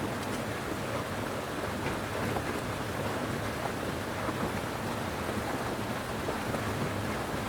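Steady rushing of water, an even noise with a few faint ticks over it.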